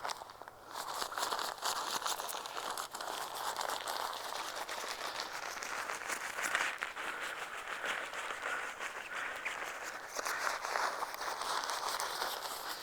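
Crinkling and rustling of an inflatable sleeping pad's thin fabric as it is rolled up tightly toward its valve to squeeze out the last air, with a continuous scrunching full of small crackles.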